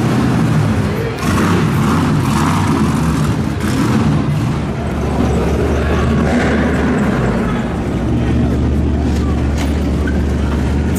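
Car engine rumbling at low speed as a show car drives off, with people talking around it.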